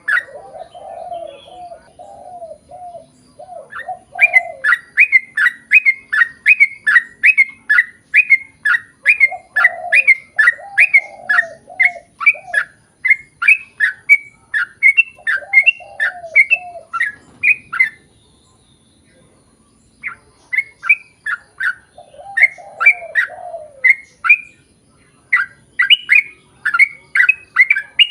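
Yellow-vented bulbul (trucukan) singing a long 'ropel' run of quick, repeated chattering notes, about three a second, with two short pauses. Lower, softer warbled notes come in several times beneath it.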